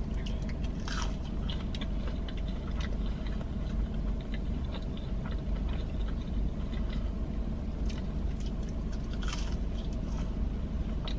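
A person biting and chewing food, with a few crisp crunches standing out, over a steady low background hum.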